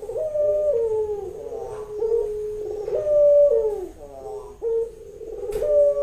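Female puter dove (Barbary dove) cooing in a run of repeated, clear calls about once a second, each stepping up and sliding back down in pitch. It is the call of a hen in breeding condition, summoning a male to mate.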